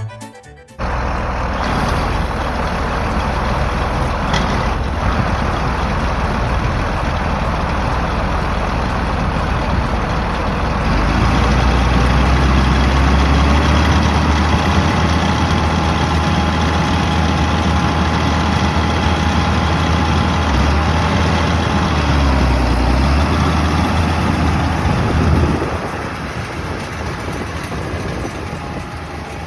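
Engine of heavy farm machinery running steadily in a hay field, growing louder about ten seconds in and dropping back near the end.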